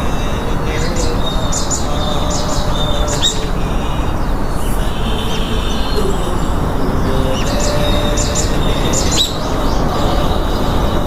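Small birds chirping in short clustered calls over a steady noisy background.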